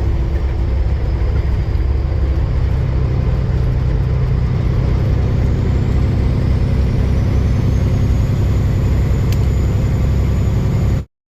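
Semi truck's diesel engine running steadily with road noise, a loud low rumble that cuts off suddenly near the end.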